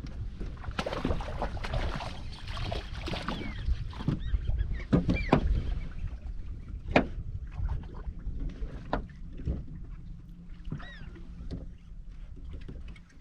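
Gulls giving several short arched cries over a steady low rumble of wind and water, with scattered knocks and splashes around the boat.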